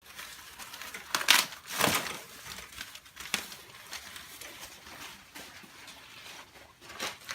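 Crinkling and rustling handling noise, with sharper scraping bursts about a second in, near two seconds, around three and a half seconds and near the end.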